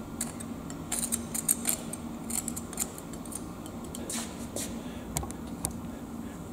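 Irregular light clicks and scrapes of a freshly cast aluminium piece being handled, over a faint steady hum.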